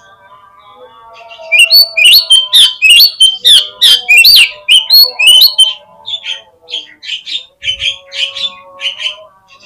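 Oriental magpie-robin (kacer) singing a fast series of loud, sharp, upswept notes, about two or three a second, starting about one and a half seconds in and growing softer after the middle. Faint steady whistled tones sit beneath.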